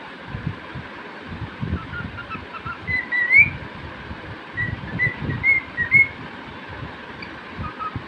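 Cockatiel whistling: short chirping notes, a rising whistle about three seconds in, then a quick run of short whistled notes around five to six seconds. Low rumbling noise runs underneath.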